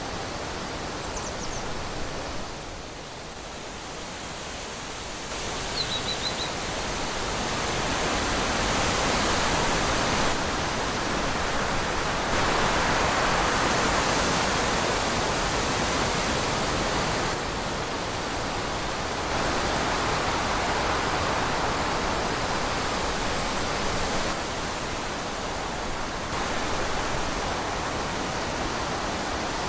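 Wind blowing steadily through trees, swelling and easing in slow gusts, with two faint high chirps a few seconds in.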